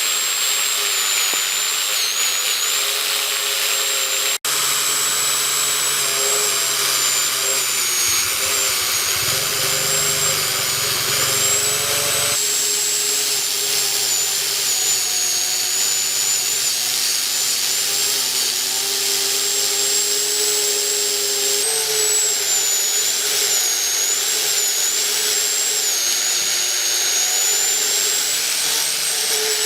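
A small electric power tool running steadily with a high, slightly wavering whine. It comes in several stretches that change abruptly about 4, 12 and 22 seconds in.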